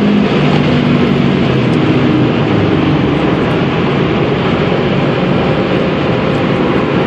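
Subaru WRX STI's 2.5-litre turbocharged flat-four pulling under hard acceleration. The engine note drops with an upshift just after the start, then climbs slowly, under heavy wind and road noise at high speed.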